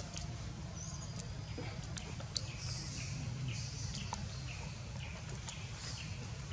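Faint bird chirps over a steady low rumble. From about three seconds in, short falling chirps repeat about twice a second, with a few faint clicks.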